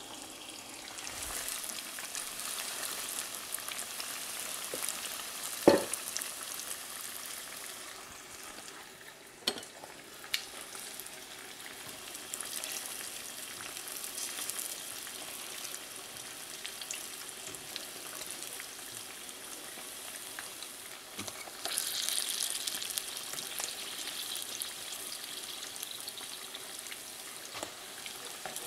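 Hot oil sizzling steadily as breaded pieces shallow-fry in a skillet on a gas stove, with a sharp knock about six seconds in and two lighter clicks around ten seconds. The sizzle grows louder and brighter about two-thirds of the way through.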